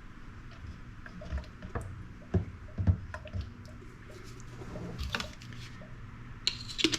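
Super Clean degreaser concentrate poured into a plastic spray-gun cup, with scattered small knocks and clicks from the bottle and cup being handled.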